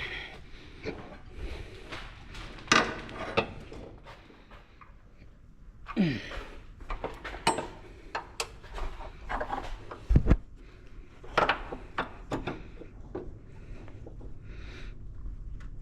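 Irregular knocks, clinks and scraping of tools and metal parts being handled and rummaged through, with a few sharper clacks scattered throughout.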